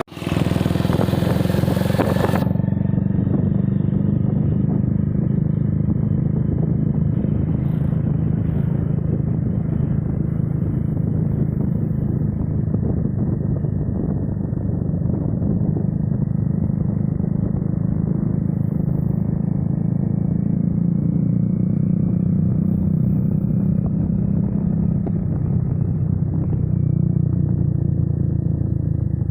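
Motorcycle running steadily on the move, a dense low rumble throughout; it sounds bright for the first two seconds or so, then muffled for the rest.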